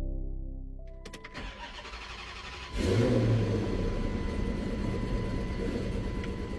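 Music fades out, a couple of sharp clicks come about a second in, and then a Chrysler 300C's engine starts near the three-second mark with a quick rise in revs before settling into a steady idle.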